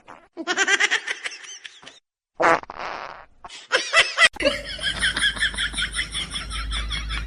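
Laughter-like voice sounds in quick repeated pulses, in a few separate bursts with short breaks, then a longer run of about five pulses a second from about halfway through, over a low hum.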